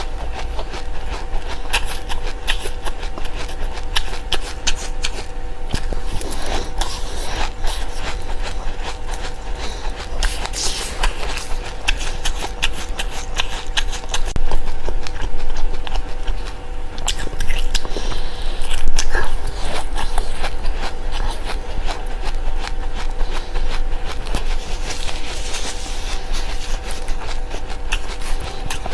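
Seeds being chewed close to the microphone: a dense run of small crackling crunches, with a faint steady electrical hum underneath.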